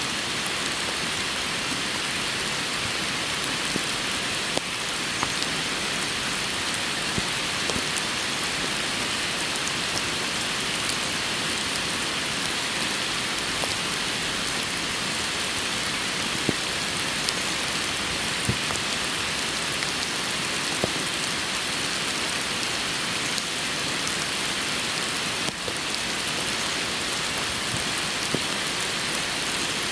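Steady rain falling, a constant hiss with many scattered individual drops ticking.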